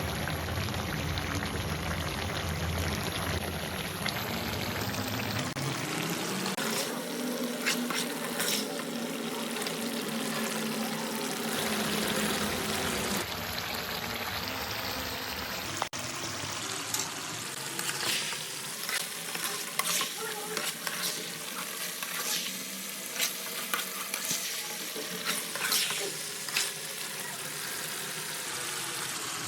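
Chicken sizzling as it fries in hot oil, stirred throughout, with short scrapes and knocks of a spatula against the pan. A low hum is also heard for the first few seconds.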